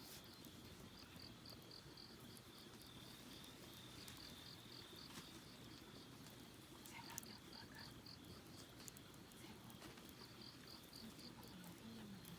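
Crickets chirping faintly in repeated bouts of quick high pulses, about five a second, over a steady high trill, with a few faint scattered ticks.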